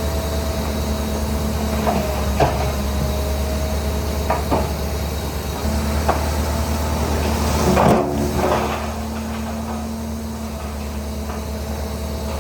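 Heavy diesel earthmoving machine, likely the Shantui DH17C3 bulldozer, running steadily with a low drone. Several sharp metallic clanks and knocks break in, and there is a louder, rougher clatter about eight seconds in.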